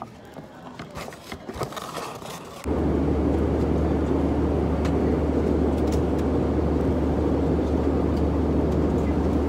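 Scattered clicks and handling noises, then about three seconds in a loud, steady low drone with a rushing noise cuts in, typical of the inside of a jet airliner cabin in flight, and holds even until it cuts off abruptly.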